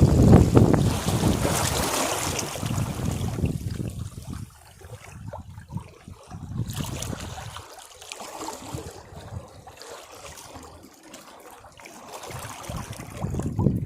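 Sea waves breaking on rocks: a loud surge of surf at the start that slowly dies away into quieter washing water, then the next wave surging in near the end.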